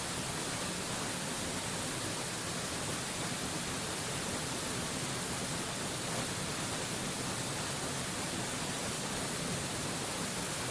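Waterfall, a steady, even rush of falling water with no changes.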